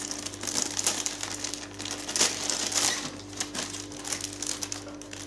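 Packaging crinkling and rustling in irregular bursts as a wrapped item is handled and opened; the item is the sewing machine's fabric dust cover. A faint steady hum runs underneath.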